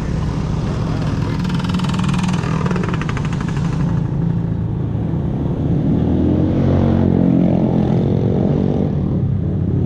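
Small motorcycle engines running steadily, with a buzzy engine note from about one and a half to four seconds in, and another engine rising then falling in pitch from about six to eight seconds in as a bike goes by.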